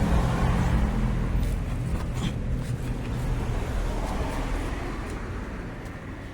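A motor vehicle's engine rumble fading away as it moves off, getting steadily quieter.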